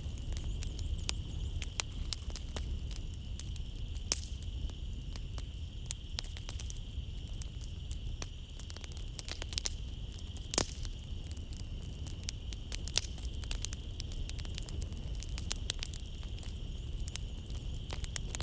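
Wood fire crackling in a fireplace, with irregular sharp pops and snaps over a low rumble. The loudest pop comes about ten and a half seconds in. Night insects chirr steadily and high-pitched behind it.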